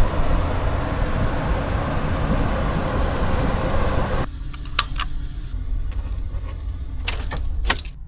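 Steady rushing wind and road noise, cut off abruptly about four seconds in. A quieter low rumble follows, with a few sharp clicks and a jangle near the end.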